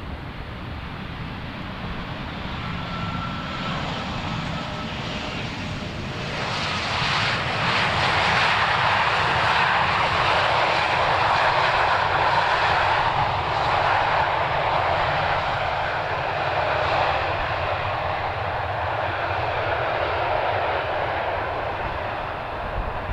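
Twin turbofan engines of a Boeing 737 flying by: a steady jet rush that swells sharply about six seconds in, stays loud for several seconds, then eases a little.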